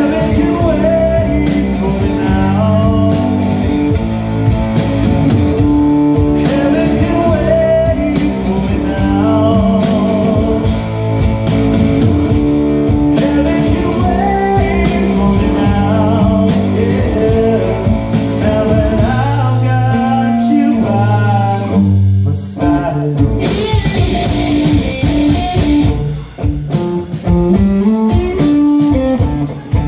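Live blues-rock band playing, guitar to the fore, with singing. The sound thins out for a moment about two-thirds of the way through.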